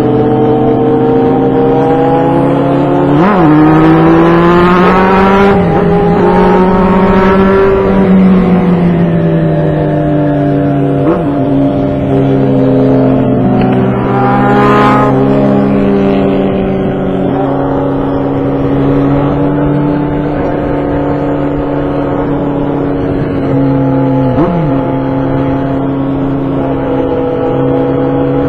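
Motorcycle engine running under way, its note rising and falling with the throttle and briefly breaking three times.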